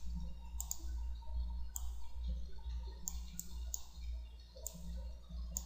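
Computer mouse clicking: a run of single, sharp clicks at uneven intervals, over a steady low hum.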